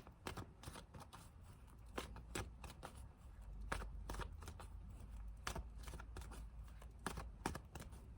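Tarot cards being shuffled by hand: a run of soft, irregular card clicks and slaps.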